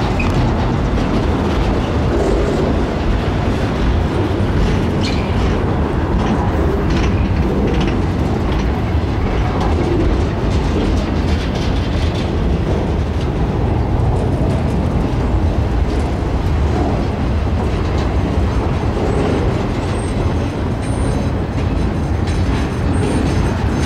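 Freight train of flatcars carrying circus trailers and vehicles rolling slowly past at close range: a steady rumble of steel wheels on rail with occasional clicks. Brief faint high-pitched squeals come near the end.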